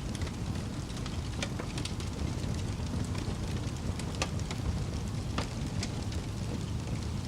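Fire crackling, with irregular sharp pops and snaps over a steady low rumble of the flames.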